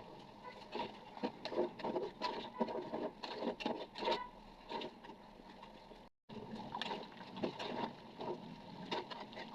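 Irregular clinks, knocks and scrapes of a utensil working against a cooking pot, with a brief gap about six seconds in.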